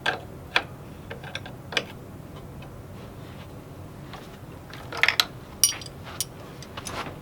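A series of light, irregular clicks and knocks, about seven over several seconds with a small cluster near the middle, like small parts or tools being handled.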